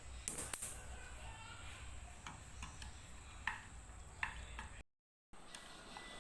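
A handful of light, separate clicks and taps from small objects being handled, spread out over a steady low background, with a short cut to dead silence about five seconds in.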